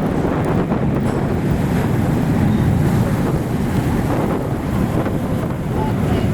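Steady rumble of a passenger ferry under way, engine and water noise together, with wind buffeting the microphone.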